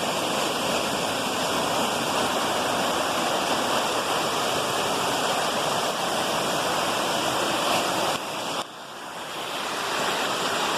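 Waterfall's rushing water, a steady roar of falling water. About eight and a half seconds in it drops away suddenly, then builds back up over the next second or two.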